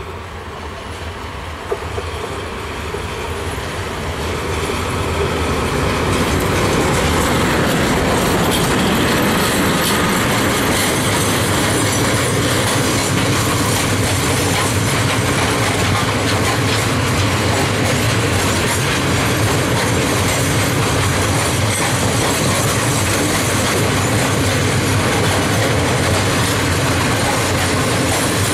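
A train approaching and then running past close by, its wheels rolling over the rails. The sound builds over the first six seconds and then stays steady and loud.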